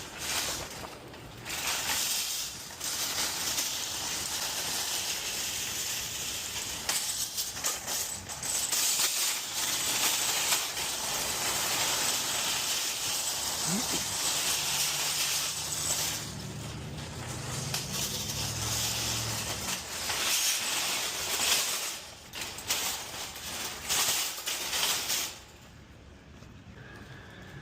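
Wind buffeting the microphone: a loud, gusty hiss that swells and eases, dropping away sharply near the end.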